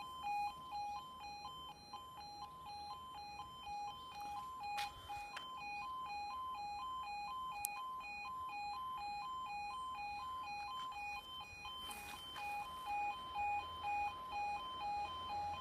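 Level crossing warning alarm sounding: the British two-tone 'yodel', alternating quickly and evenly between two pitches, warning road users that a train is approaching.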